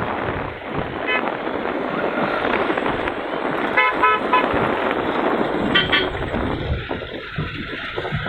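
Horn sounding in short toots: one at about a second in, a quick run of several around the middle, and another a couple of seconds later. Steady rushing noise of wind or traffic lies under them.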